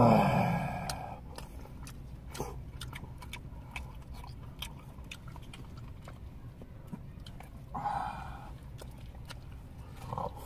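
Close mouth sounds of people eating soup with chopsticks from plastic bowls: chewing with scattered small clicks. A brief voice sound comes at the very start, and a shorter one about eight seconds in.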